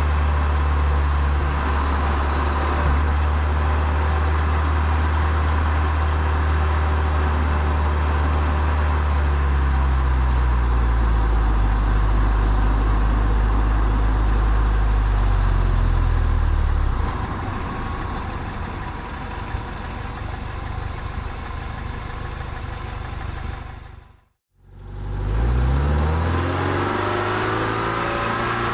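Toyota MR2 roadster's 1.8-litre four-cylinder engine running, heard from on board over steady road and wind noise. Its note drops in pitch about ten seconds in and grows quieter from about 17 seconds. The sound cuts out briefly around 24 seconds, then the revs rise again.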